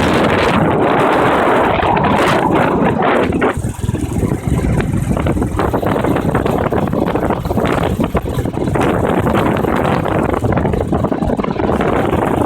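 Wind rushing over the microphone of a moving motorbike, a loud, steady roar of air and road noise that dips briefly now and then.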